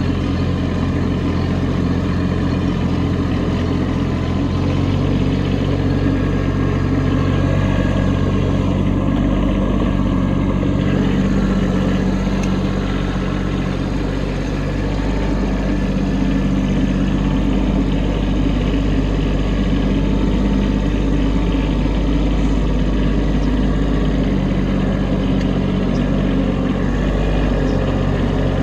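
Kubota B2601 compact tractor's three-cylinder diesel engine running steadily while it works heavy, wet snow with the loader.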